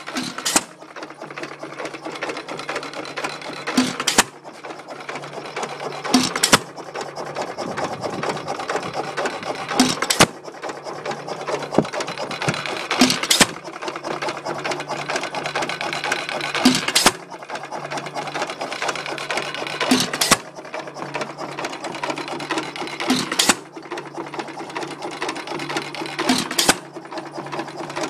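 1922 Associated Chore Boy 1 3/4 HP hit-and-miss engine running. It fires with a sharp bang about every three and a half seconds and coasts between firings with a steady mechanical clatter, as its governor holds the exhaust open on the miss strokes.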